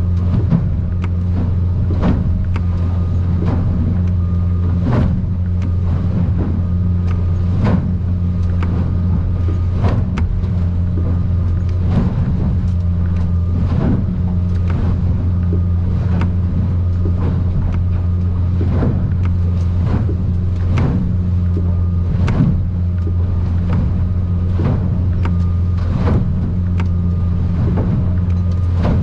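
Outboard motor running steadily with the boat under way, with frequent short knocks and slaps as the aluminium hull of a Stabicraft 2050 Supercab hits rough chop and swells.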